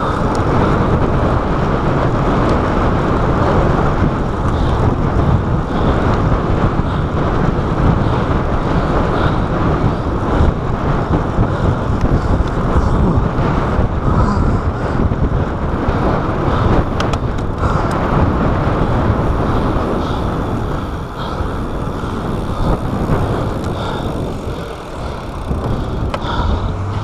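Wind rushing and buffeting over a chest-mounted action camera's microphone as a road bicycle is ridden at speed. The rush is loud and steady, easing briefly twice in the last third.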